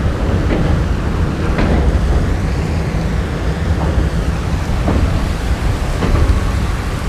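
Passenger train running, heard from an open carriage doorway: wind buffeting the microphone over a steady low rumble, with a few faint clicks about a second apart.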